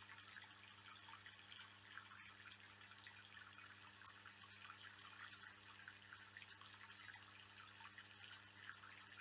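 Steady, soft rain-like patter of water with a faint low hum underneath.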